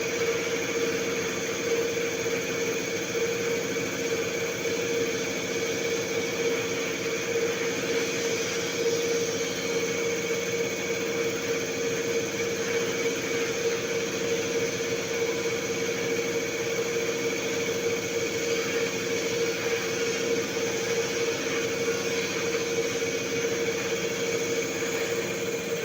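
Diesel common-rail injector test bench running a calibration test on a Renault Duster injector: a steady machine hum with a higher whine, its motor driving the high-pressure pump.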